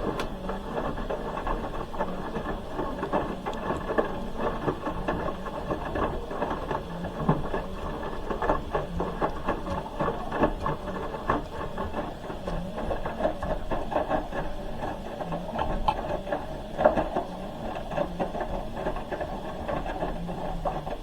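Hoover H-wash 300 Plus washing machine turning its drum in the wash cycle: the motor runs and the wet laundry tumbles with many small knocks and thuds. The drum starts turning at once and stops near the end.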